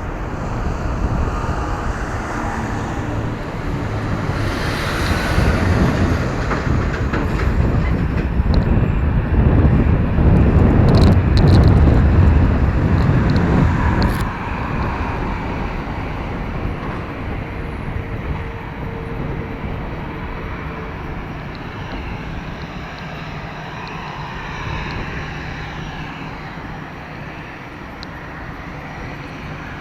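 An aircraft's engines rumbling as it passes. The deep roar builds to its loudest about ten to thirteen seconds in, then slowly fades away.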